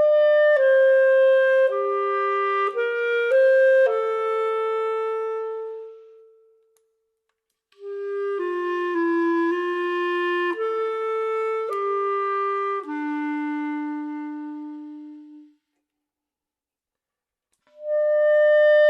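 A slow melody played on a clarinet-like woodwind, held notes stepping downward in phrases separated by pauses of about two seconds; the opening phrase returns near the end.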